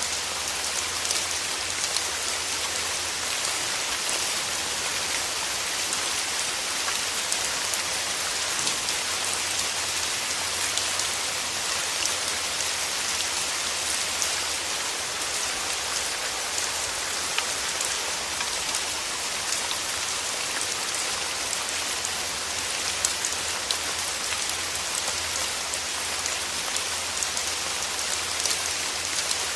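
Steady rain falling: an even hiss made of many small, separate drop hits, with no let-up or change.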